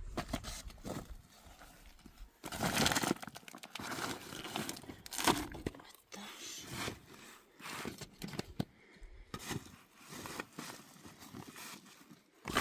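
Irregular rustling and crackling of leafy branches being handled, with sharp snaps here and there; the loudest stretch comes about two and a half seconds in.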